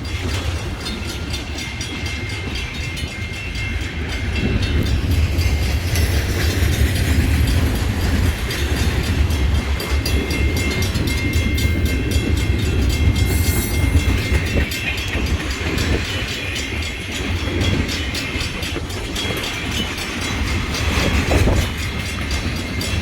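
A train passing close by, a continuous low rumble throughout with faint high steady tones above it.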